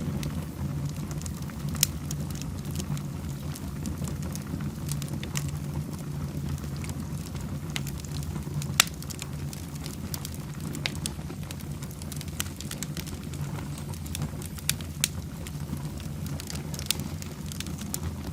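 Wood fire burning in a fireplace: a steady low rumble with scattered sharp crackles and pops, the loudest about two seconds in and near the middle.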